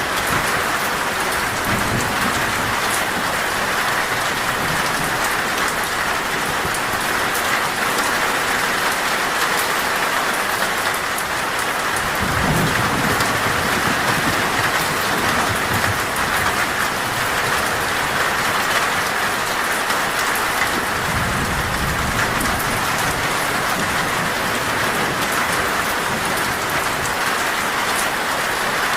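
Heavy rain pelting a metal roof in a steady, dense patter. Low rolls of thunder come three times: about 2 seconds in, around 12 seconds and around 21 seconds.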